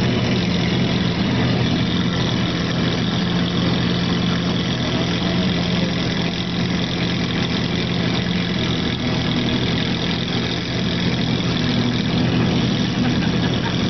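Lamborghini Aventador's V12 engine idling steadily, without revving.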